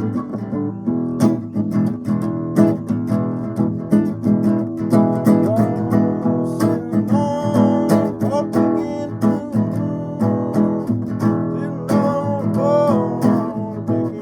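Acoustic guitar playing a blues, strummed chords with a melody line over them, some notes sliding in pitch.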